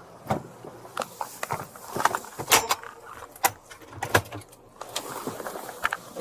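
A string of sharp, irregular clicks and clinks from small hard objects being handled, some of them metallic like keys jangling.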